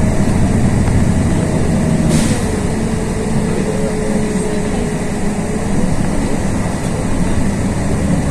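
Inside a LiAZ 6213.22 articulated diesel city bus under way: steady low engine and road rumble, with a thin whine that drops in pitch about two seconds in and climbs back near six seconds.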